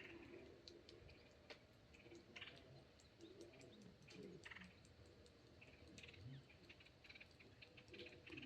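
Near silence: faint ambience with scattered soft ticks and a few brief faint chirps.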